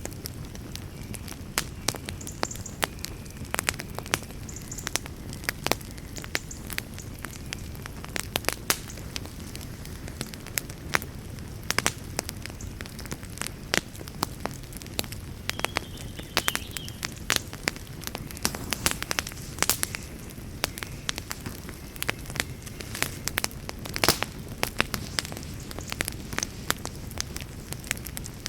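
Campfire crackling: irregular sharp pops and snaps, several a second, over a steady low rumble of burning.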